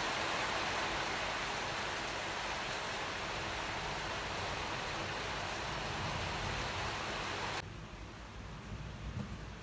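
Heavy rain falling as a steady hiss, cutting off suddenly to a much quieter background hiss about seven and a half seconds in.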